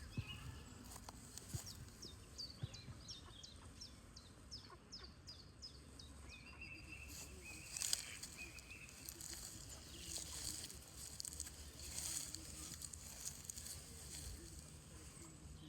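Songbirds singing outdoors: one bird repeats a quick series of high, descending notes, about two to three a second, over the first half, with other faint chirps and a short held note later. A low rumble lies underneath.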